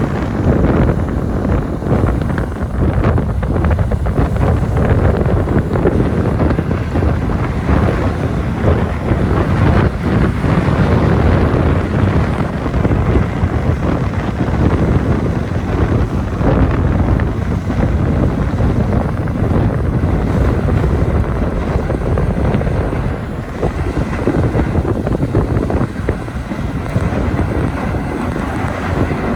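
Strong wind buffeting the microphone on deck: a loud, unbroken rumbling rush that rises and falls with the gusts.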